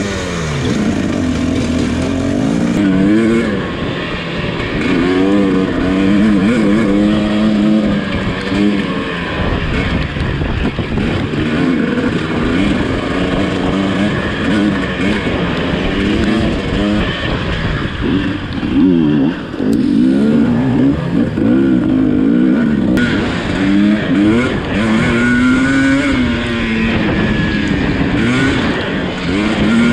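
Dirt bike engine running hard under load, its pitch rising and falling again and again as the rider opens and closes the throttle through the gears.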